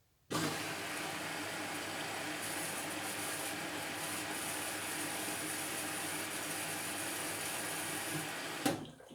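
Indesit washing machine's water inlet valve opening with a sudden hiss of water rushing in through the detergent drawer, filling the drum at the start of the cotton wash. It shuts off abruptly with a click near the end.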